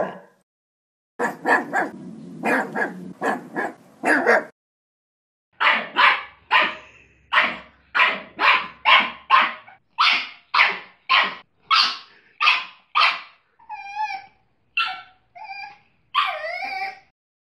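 Pug barking: a few barks about a second in, then a fast, even run of sharp barks about two a second, ending in higher yelps that slide up and down in pitch.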